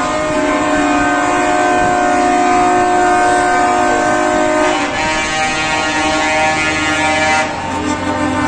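Truck air horns blowing in long, overlapping blasts, several steady tones sounding together as a chord that changes about five seconds in and again near the end.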